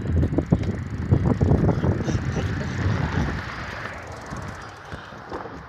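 Low rumble and rattle of a bicycle being ridden, fading over the last couple of seconds.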